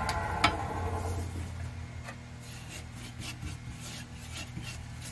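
A wood lathe's motor hum dies away after a sharp click about half a second in, the lathe being switched off. Scattered scraping and rubbing on the wood follow.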